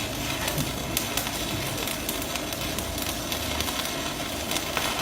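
Stick-welding arc crackling and sizzling steadily as a 4 mm electrode burns, with scattered sharp pops, fed by an Alisen MMA 420A inverter welder.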